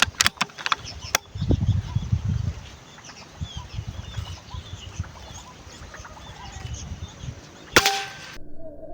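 A single sharp shot from a Bocap Predator PCP air rifle near the end, with a brief ring after it, preceded by a few short clicks in the first second and faint bird calls in between. The sound cuts off suddenly about half a second after the shot.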